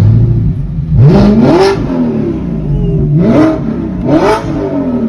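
A straight-piped, naturally aspirated 4.2-litre V8 in an Audi R8, revved in neutral while standing. About four short throttle blips, each sweeping up in pitch and dropping back to idle; the longest comes about a second in, and two quicker ones come near the end.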